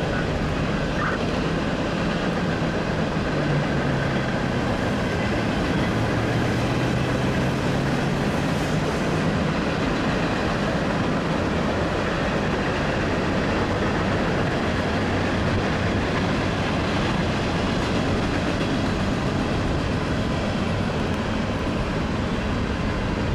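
Freight train of open hopper cars rolling past, a steady rumble of wheels on rail. A faint low hum sits under it for the first ten seconds or so.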